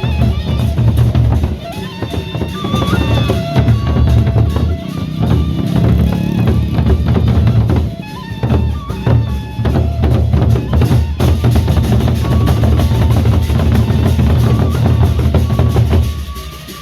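Loud procession music driven by heavy drumming, with a strong low beat and drum rolls under a held melodic line; the music thins out near the end.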